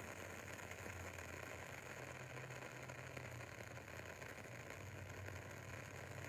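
Faint, rapid crackling of a burning triple-wicked soy candle's wooden wicks, over a steady low hum.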